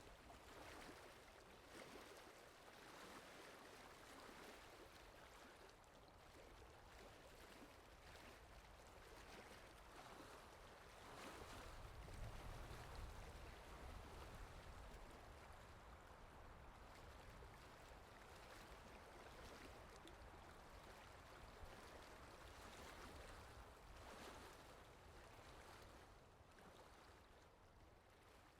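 Faint ocean ambience: water washing and lapping in slow, gentle swells, fading out near the end.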